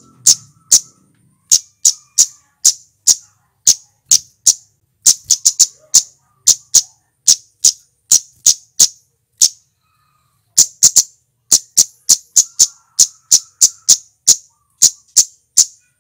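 A male flowerpecker (cit keres) calling: sharp, high-pitched chips repeated about two to three times a second, some in quick doublets, with a brief pause a little past the middle.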